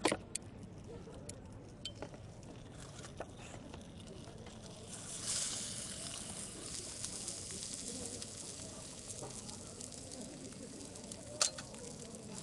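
Small outdoor fire burning, with scattered sharp crackles and a hiss that swells suddenly about five seconds in and slowly dies down as the flames flare up.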